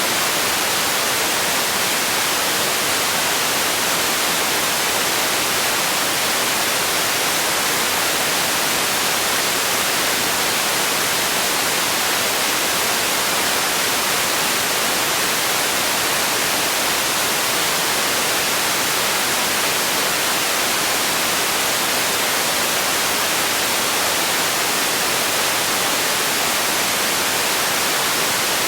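Steady white noise: a constant, even hiss, brightest in the treble, that does not change.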